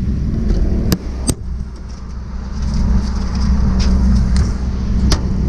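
Peterbilt 389 dump truck's diesel engine idling with a steady low rumble, with a few sharp metallic knocks: two close together about a second in and one near the end.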